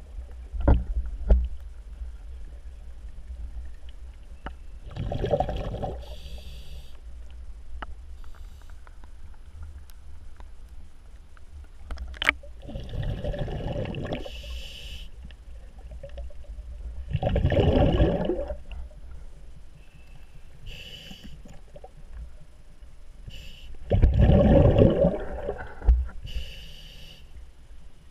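Scuba regulator breathing underwater: four loud rushes of exhaled bubbles, a breath every six to seven seconds, each with a short high hiss beside it. There are a few sharp clicks and a steady low rumble between breaths.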